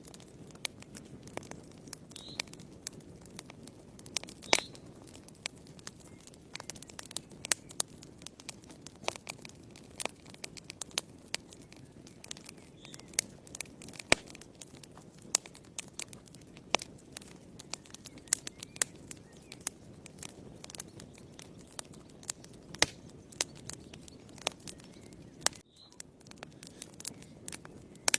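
Wood fire burning in a fireplace, crackling with frequent irregular sharp pops over a steady low rush of flame.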